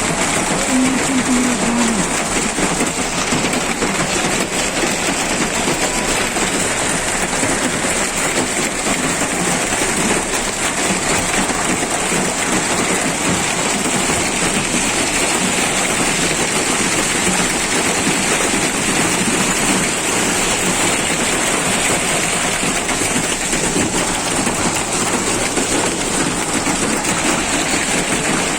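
Hailstorm with rain pelting down: a dense, steady clatter of countless small impacts on hard surfaces.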